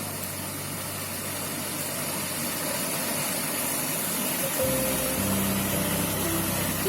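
Steady rushing of a flowing brook. Soft music notes come in over it about two-thirds of the way through.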